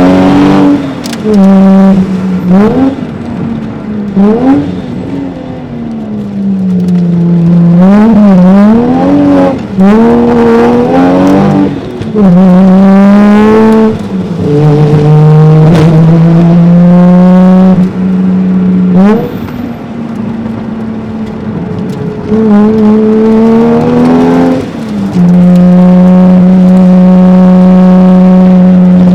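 Toyota 1JZ-GTE twin-turbo inline-six in a JZZ30 Soarer, heard from inside the cabin, being driven hard: the engine revs rise and fall again and again through the corners, with several quick short blips of revs in a row and long steady pulls at high revs.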